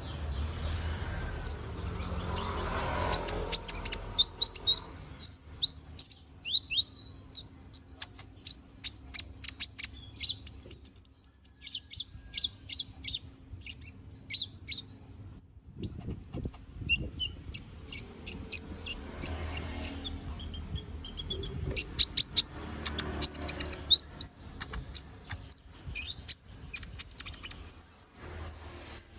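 Kolibri ninja sunbird singing in rapid runs of short, high chirps and trills, broken by brief pauses, pouring out its repertoire of mimicked song inserts.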